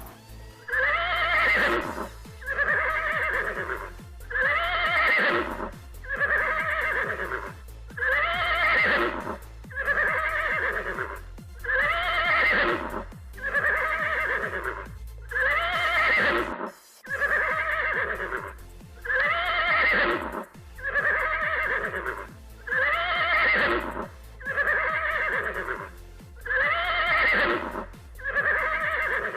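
An animal call, looped and repeated about once a second for the whole stretch, alternating between a higher and a lower note, over music with a steady beat.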